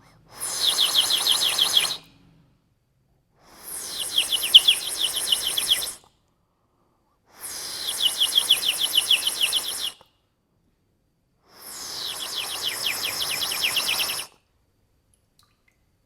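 Toysmith water-filled warbling bird whistle blown four times, each blow a fast warbling trill of about two to three seconds. The warble comes from the air bubbling through the water in its base.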